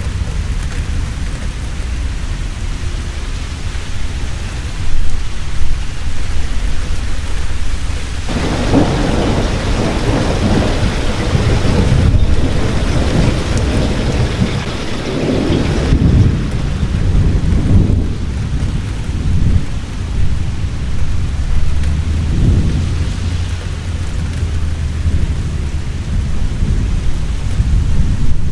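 Heavy rain falling steadily, with a long rumble of thunder that sets in suddenly about eight seconds in and fades over several seconds. A weaker rumble follows later.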